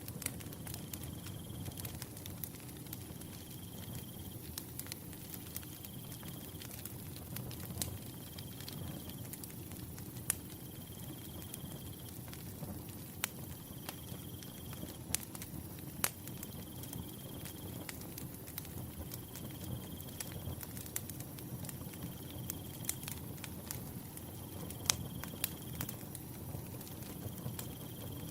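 Firewood burning with a low steady rush and scattered sharp crackles and pops, while a cricket trills in short bursts about every two seconds.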